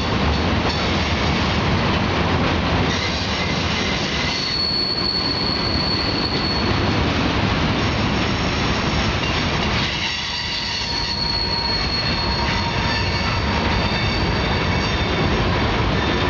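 Freight train cars rolling past, steel wheels rumbling continuously, with high-pitched wheel squeal that comes and goes.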